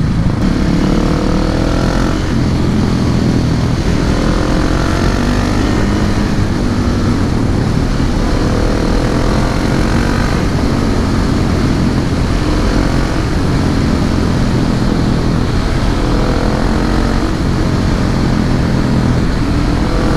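Husqvarna 701 Supermoto's single-cylinder engine breathing through an SC-Project exhaust while riding, its pitch rising again and again as it accelerates through the gears.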